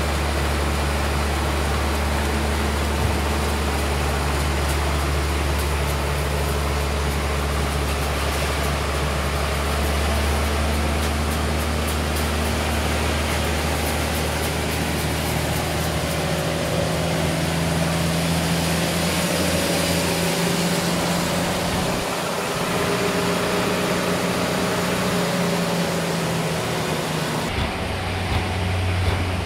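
A sawmill engine running steadily with a low hum. About halfway through its note shifts and a higher steady tone comes up. Near the end the sound changes abruptly.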